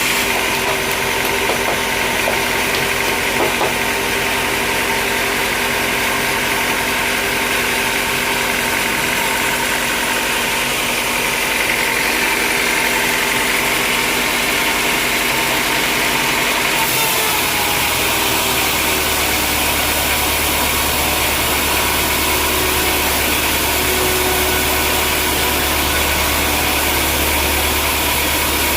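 Sawmill machinery running steadily, a constant mechanical noise with a few held tones. About two-thirds of the way through, a deep low hum sets in and the hiss grows brighter, as another machine comes in or the load changes.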